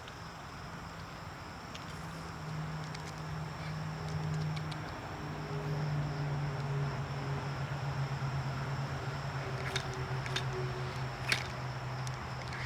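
Steady high-pitched chirring of insects, with a low steady hum underneath that grows a little louder after a few seconds. A few light clicks come near the end.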